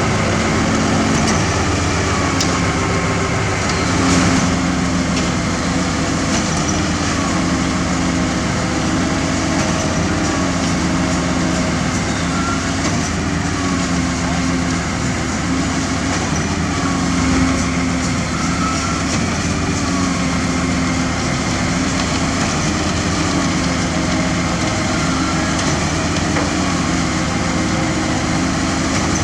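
Heavy diesel engines running steadily, their pitch rising and falling slightly every few seconds as the load changes.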